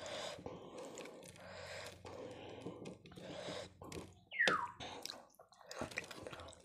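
Close-miked wet chewing and squishing of chicken curry and bread, in a string of short bursts. A little past four seconds in comes one short, louder sound that falls in pitch.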